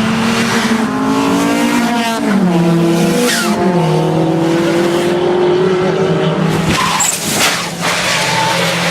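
Rally car engine running hard, its pitch climbing, dropping and holding, with tyre skidding noise. About seven seconds in, a short burst of noise briefly breaks the engine note.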